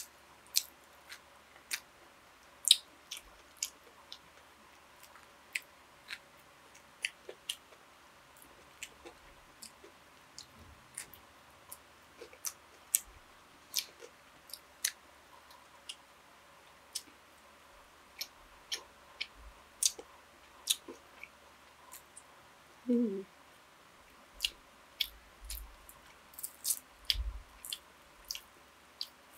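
Eating sounds: chewing with frequent sharp, irregular mouth clicks and smacks, and a brief hum of the voice about three-quarters of the way through.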